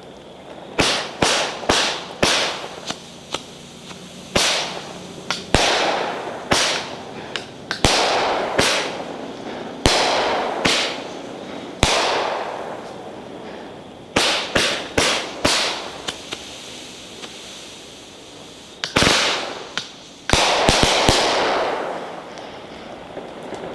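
A 20-shot consumer fireworks cake firing: sharp bangs come in uneven clusters of two to four, each trailing off over a second or so. A dense group of bangs near the end is the loudest.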